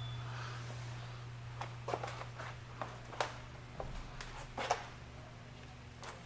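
Footsteps on a hard floor, a series of irregular light steps and clicks, over a steady low room hum.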